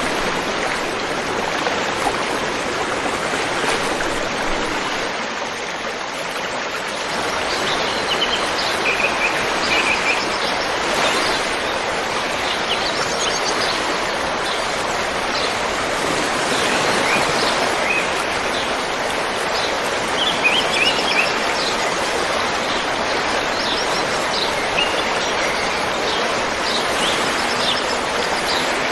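River water flowing with a steady rush. Small birds chirp over it in short high calls from about a quarter of the way in.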